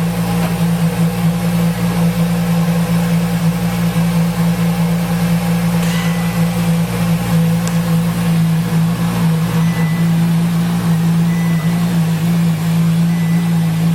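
Ferrari LaFerrari's V12 engine idling steadily just after a cold start, at an even pitch with no revving.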